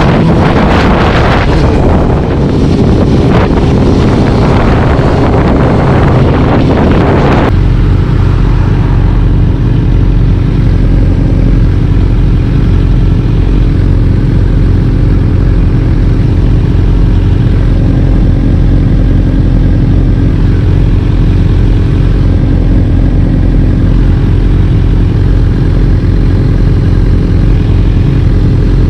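A vehicle engine running while driving, under heavy wind noise on the microphone. About seven seconds in, the wind noise drops away suddenly, leaving a steady low engine drone.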